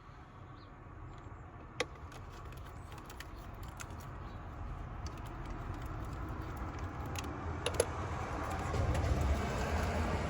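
Scattered light metallic clinks and clicks of hand tools and intake parts being handled in a car's engine bay, over a steady low rumble that grows gradually louder.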